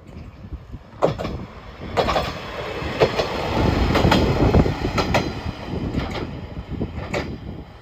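Diesel local railcar running along the track, its wheels clattering over rail joints about once a second over a steady rumble.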